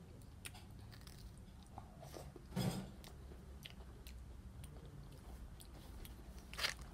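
Close-up chewing and biting on a McDonald's apple pie, with scattered short crunches of the crust; the loudest come about two and a half seconds in and near the end.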